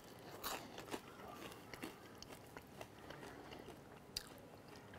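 Biting into and chewing a piece of crispy, pan-browned bread spread with herb butter: faint crunches, the loudest about half a second in.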